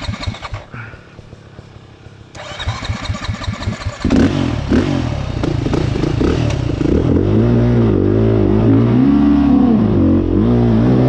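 Dirt bike engine sputtering and dying away, catching again about two seconds in, then revved hard from about four seconds on, its pitch rising and falling and held high near the end.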